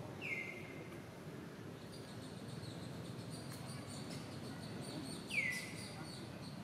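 Two short, clear whistled bird calls, each sliding down in pitch, one at the start and a louder one about five seconds in, over a faint steady high insect whine and quiet forest background.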